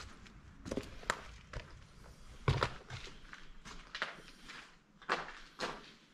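Footsteps of a person walking, a handful of uneven steps, the loudest about two and a half seconds in and another pair near the end.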